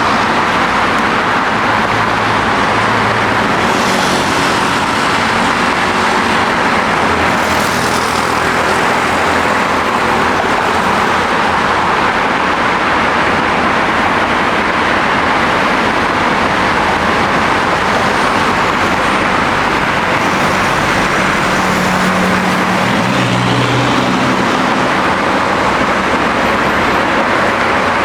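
Airliner engines running with a loud, steady noise that holds at the same level throughout.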